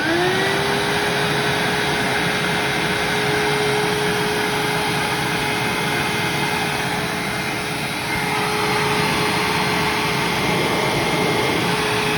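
A 2003 Hoover WindTunnel upright vacuum's motor is switched on. It whines up to speed within about half a second and then runs steadily, with the flat belt off.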